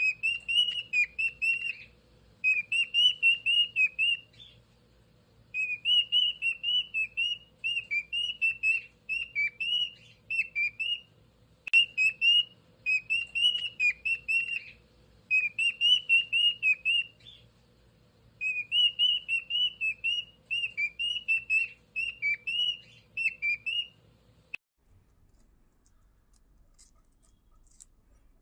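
Cockatiel whistling a song: phrases of quick, chirpy whistled notes, several a second, repeated over and over with short pauses between, stopping a few seconds before the end.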